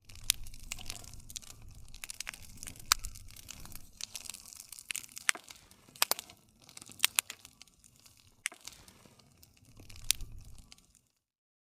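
Wood fire crackling, with a low rumble of flames and many sharp, irregular pops of burning wood. It cuts off suddenly about eleven seconds in.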